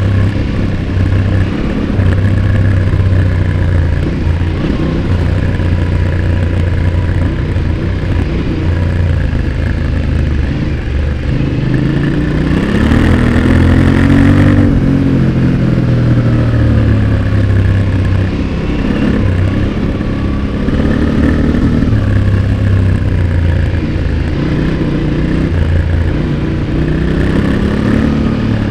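Yamaha Ténéré 700's 689 cc parallel-twin engine heard through its exhaust from close by, riding at varying throttle; the revs climb and then drop off about halfway through, with smaller rises and falls around it.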